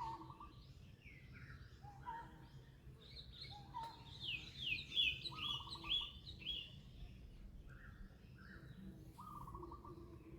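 Birds calling: repeated short high chirps that sweep downward, with a quicker run of them in the middle, and now and then a lower short trilled note, over faint steady background noise.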